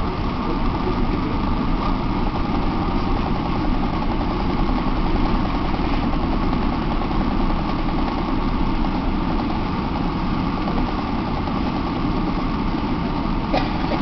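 Steady cabin noise of a Boeing 777-300 airliner: an even rumble of engines and airflow.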